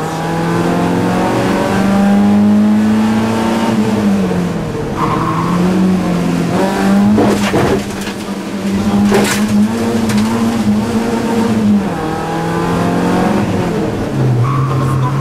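BMW E30 318iS rally car's 1.8-litre four-cylinder engine, heard from inside the cabin, pulling hard and climbing in pitch, dropping with each gear change. A few sharp knocks come around the middle, and the engine note falls lower near the end.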